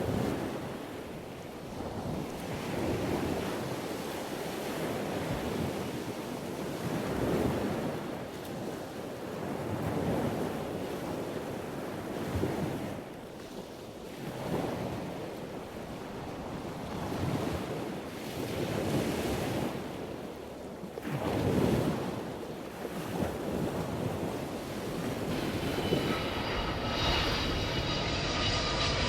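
Sea waves washing in and receding, the noise swelling and easing every few seconds, with some wind on the microphone. Music with steady tones fades in near the end.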